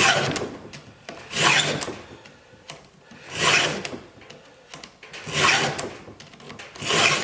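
Hand file rasping across a chainsaw chain tooth during sharpening: five pushed strokes, about one every one and a half to two seconds, with the file lifted between strokes.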